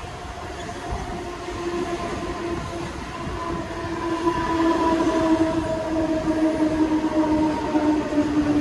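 Mumbai local electric train running, its noise growing louder about halfway through, with a held tone that slowly falls in pitch over the rumble.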